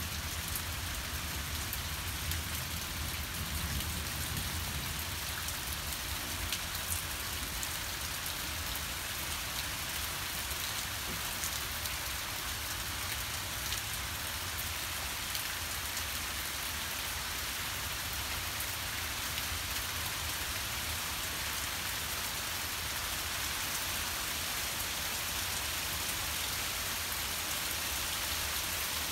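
Heavy thunderstorm rain pouring steadily, a dense, even hiss of drops hitting the ground. A low rumble of thunder dies away over the first few seconds.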